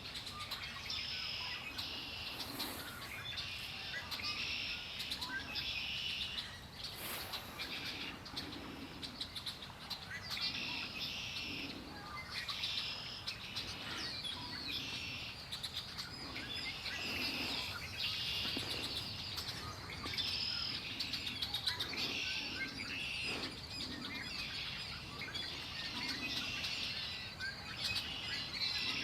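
Songbirds singing: short, high phrases, about a second each, follow one another almost without pause.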